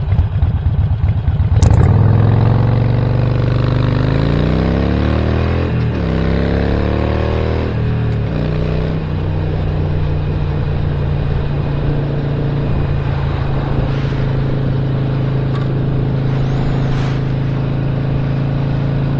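Stage 1 Harley-Davidson Sportster Roadster V-twin pulling away from a lumpy idle after a clunk about a second and a half in. It revs up in pitch, drops back at a gear change and climbs again, then settles into a steady cruise drone from about halfway through.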